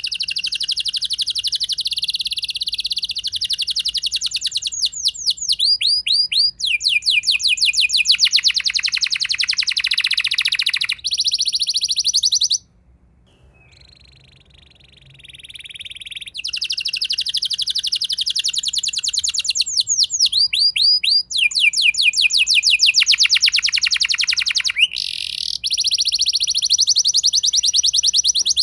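Domestic canary singing a long rolling song: fast trills of rapidly repeated notes, each roll running for a second or two before switching to another. The song breaks off for about three seconds near the middle, then resumes.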